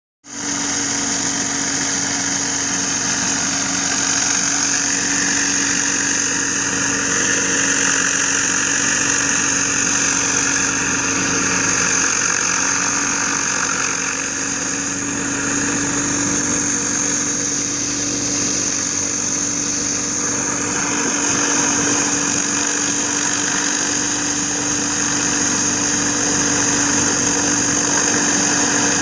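Pressure washer's engine running steadily at working speed, with a high steady whine and the hiss of the spray over concrete.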